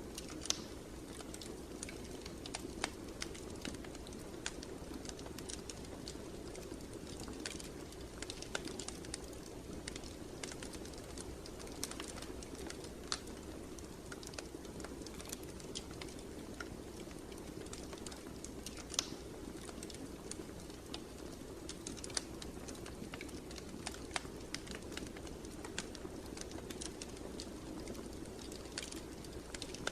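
Wood fire burning in a fireplace, crackling with irregular sharp pops and snaps over a steady low background sound.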